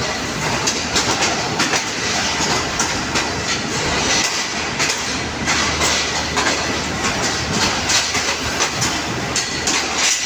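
Passenger train running slowly on the rails: a steady rumble of wheels with frequent clicks and clatter as they pass over rail joints.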